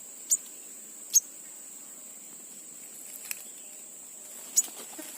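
Insects droning steadily at a high pitch, with four short, sharp chips over it.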